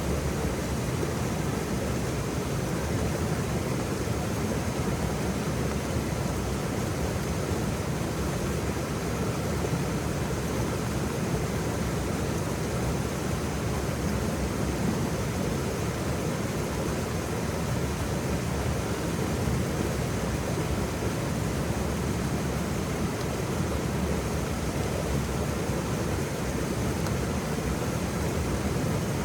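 Waterfall: falling water rushing steadily and evenly, with a deep low rumble.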